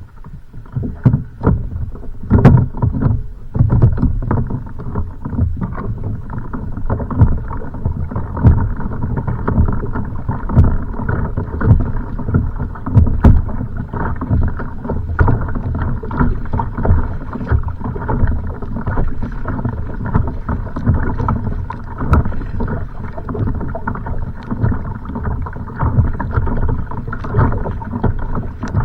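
Choppy water slapping and sloshing against a kayak's hull, a continuous wash of water broken by frequent, irregular low thumps.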